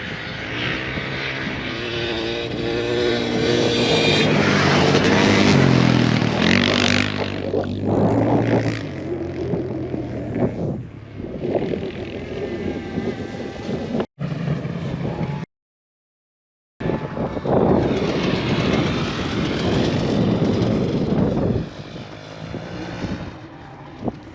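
Motorcycle engines revving and running, their pitch rising and falling, mixed with wind noise; the sound drops out suddenly for about a second partway through.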